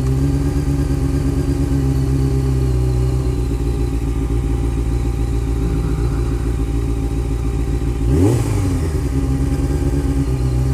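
Honda CBR sport bike's engine running steadily at low speed, with one brief rev that rises and falls about eight seconds in.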